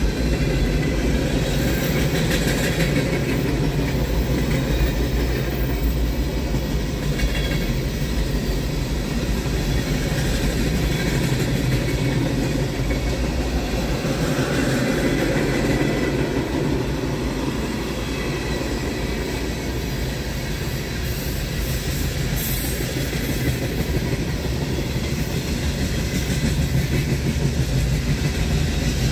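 Freight train rolling past, its cars' wheels on the rails making a steady, loud rumble.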